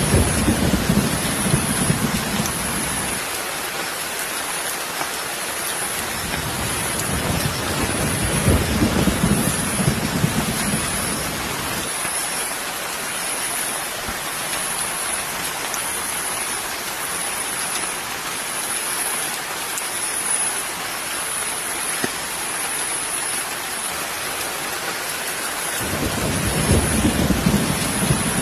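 Steady hiss of rain, with low rumbling that swells at the start, again in the middle and near the end. A faint, high pulsing sound repeats about once a second.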